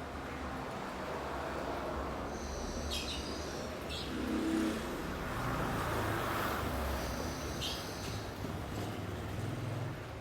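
A cucak cungkok bird giving two short, high chirping calls, about three seconds in and again near eight seconds, over a steady low rumble of traffic.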